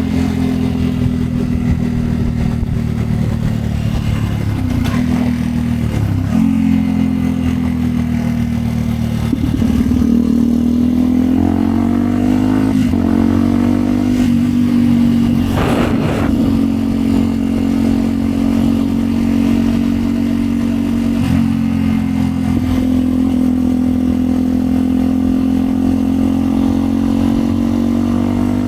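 Yamaha WR125X single-cylinder four-stroke motorcycle engine with a Yoshimura exhaust running under way at steady revs. The revs dip briefly and change pitch several times, climbing for a few seconds near the middle, and a short clatter stands out about sixteen seconds in.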